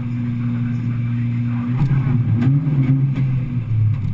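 Peugeot 106's four-cylinder engine heard from inside the car. It holds steady revs, then the revs waver up and down about halfway through, with a few light clicks, and settle back near the end.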